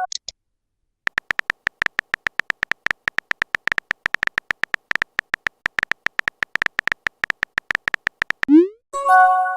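Phone keyboard typing sound effect: a fast run of small clicks, about eight to ten a second, as a text message is typed. Near the end comes a short rising swoosh and a bright electronic chime, the message-sent notification.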